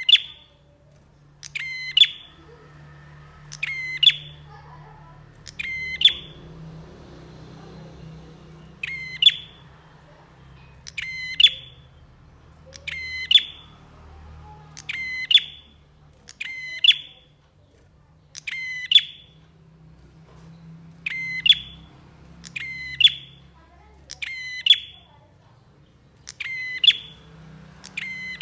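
Prinia (prenjak) calling, with about fourteen short, sharp, high calls repeated roughly every two seconds. A faint low hum runs underneath.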